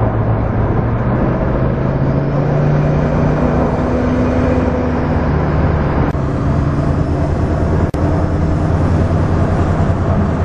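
Turbocharged 5.3-litre V8 car engine droning steadily under way, heard from inside the cabin along with road noise; its pitch rises a little a few seconds in and then eases back. A single short click about eight seconds in.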